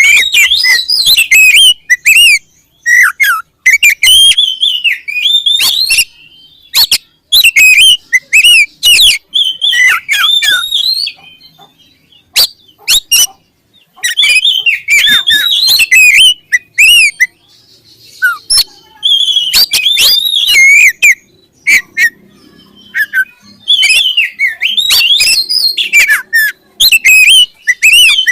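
Oriental magpie-robin singing loudly in bursts of fast, varied whistled phrases that slide up and down, mixed with sharp clicking notes, with short pauses between bursts.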